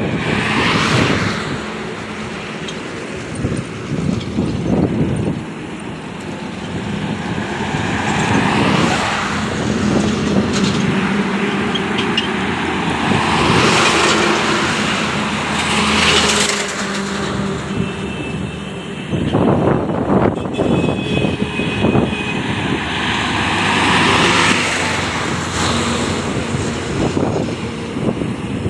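Heavy trucks passing one after another, the engine and tyre noise swelling as each one goes by and then fading, several times over.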